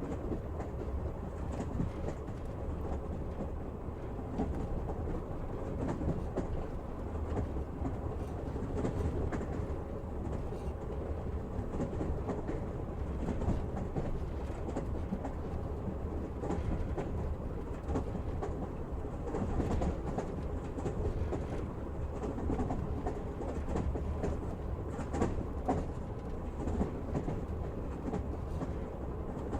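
Moving train heard from inside a passenger carriage: a steady rumble of wheels on rails, with scattered light clacks of the wheels over rail joints.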